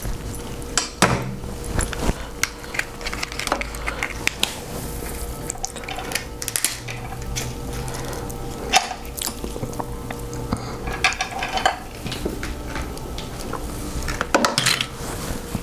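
King crab legs being cracked and broken open by hand, with scattered clicks and snaps of shell and clinks like dishes and cutlery.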